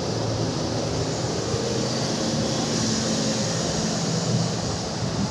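Yamaha RX100's two-stroke single-cylinder engine running steadily.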